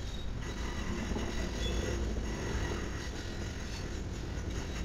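Train rolling past on the tracks: a steady rumble of wheels and cars going by.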